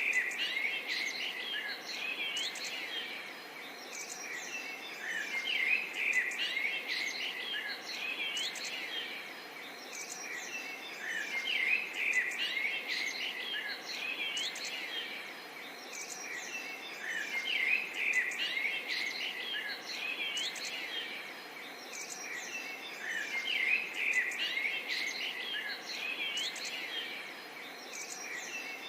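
A chorus of songbirds chirping and calling over one another, with quick swooping notes, swelling and fading every few seconds over a steady background hiss.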